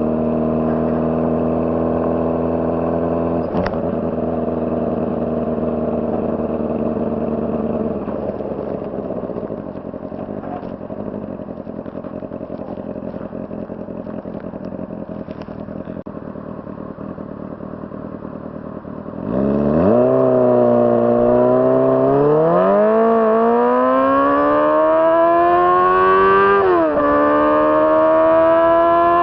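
Honda CBR600RR's inline-four engine running at a steady pitch, easing off into a quieter stretch, then accelerating hard with a sharply rising note and shifting up twice near the end.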